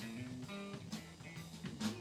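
Live band music: electric guitar and bass notes over a drum kit, with snare and cymbal hits.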